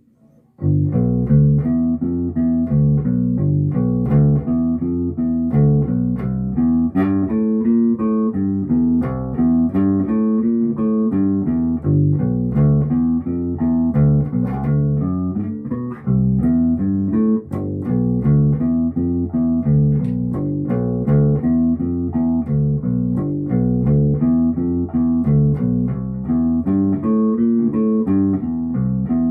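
Fender Precision Bass played through an Ampeg BA-110 bass combo amp: a continuous run of plucked bass notes in a repeating riff, starting about half a second in.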